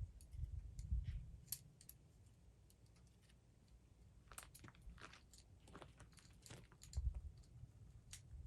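Saw chain being fitted onto a chainsaw guide bar, its links giving scattered light clicks and rattles, with a few dull bumps of handling about a second in and around seven seconds in.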